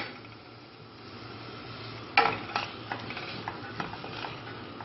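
Chopped onion and garlic sizzling as they sauté in a stainless steel pot, stirred with a wooden spoon. The spoon knocks against the pot twice a little after two seconds in, followed by a few lighter taps.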